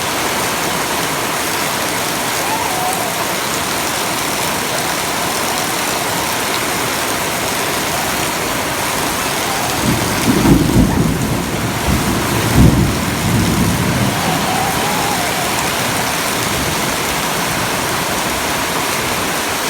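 Heavy rain falling steadily in a downpour. About ten seconds in, a low rumble swells for around four seconds, most likely thunder.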